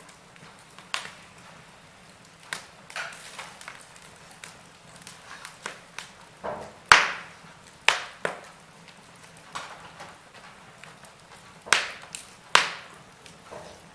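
Wood fire burning in a fireplace, crackling and popping irregularly over a faint steady hiss, with a few sharper pops about halfway and again near the end.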